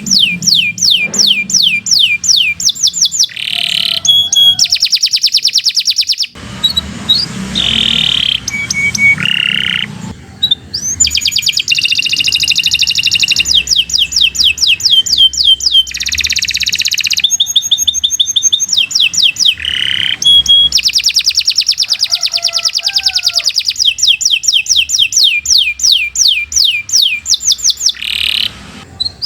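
Domestic canary singing a long, continuous song. It goes through fast trills of quickly repeated notes, each sweeping down in pitch, alternating with rolled phrases and short whistles, with only brief pauses.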